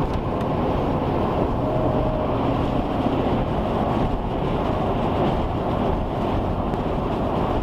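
Steady rumbling road and engine noise of a vehicle driving.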